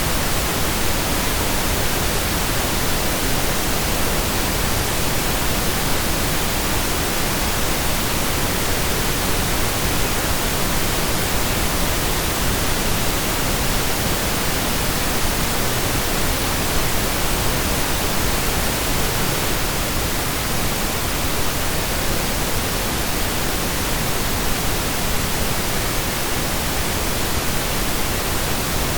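Synthesized stereo pink noise: a steady, even hiss with equal energy per octave, like steady rain or a waterfall, unchanging throughout.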